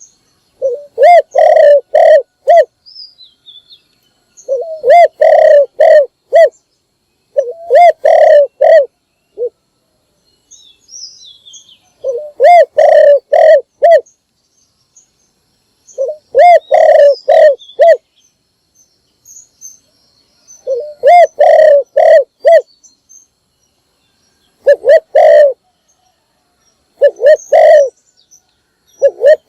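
Spotted dove cooing: loud phrases of three to five short, low hooting notes, repeated about eight times with pauses of a second or two between, as a decoy bird calls to draw in wild doves. Faint high chirps of small birds sound in a few of the gaps.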